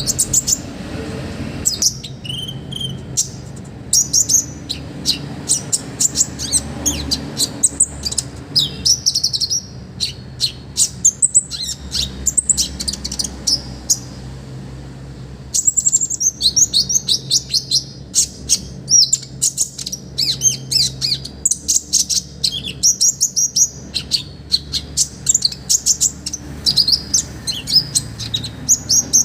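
Kolibri ninja (konin) sunbird singing hard: rapid runs of sharp, high chips and trills, broken by a short pause a little before the middle, then dense again to the end. A faint steady low hum lies beneath.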